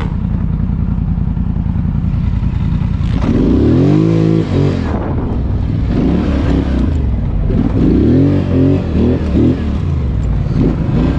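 ATV engines running steadily, with engine revving that rises and falls in pitch about three seconds in and again about eight seconds in.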